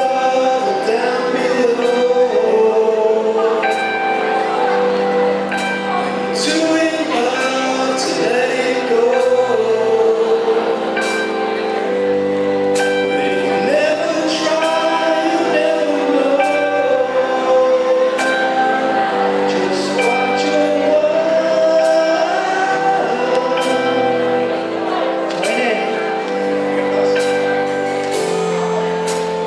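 Live band playing a song with singing over sustained chords and a steady beat of drum hits, in a large hall.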